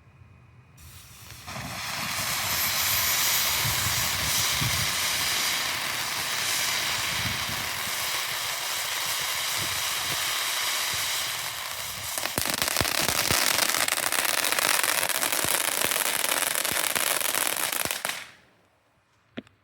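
Ground fountain firework (Megabanger Peacock) igniting about a second in and spraying with a steady loud hiss. Crackling joins in and grows louder about two-thirds of the way through, and the fountain burns out abruptly near the end.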